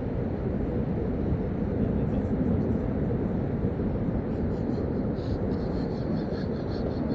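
Steady low rumbling noise, even and without pitch, with a few faint high ticks about five seconds in.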